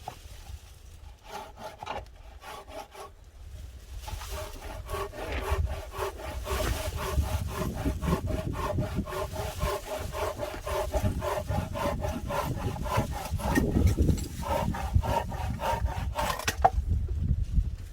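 Hand saw cutting through firewood in quick back-and-forth strokes, with a ringing tone from the blade. A few short strokes come first, then after a brief pause a long steady run of sawing that stops sharply near the end.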